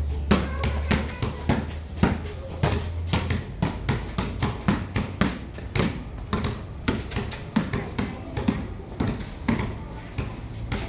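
Basketballs being dribbled on a court: a quick, irregular run of sharp bounces, several a second, as more than one ball hits the floor.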